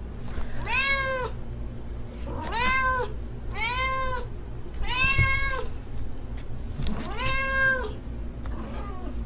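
Domestic cat meowing repeatedly, about five separate meows, each rising and then falling in pitch.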